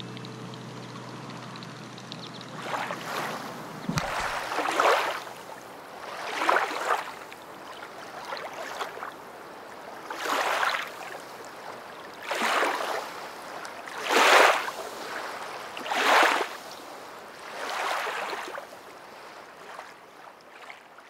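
Water washing in swells, about one every two seconds, each building and fading over roughly a second, like waves.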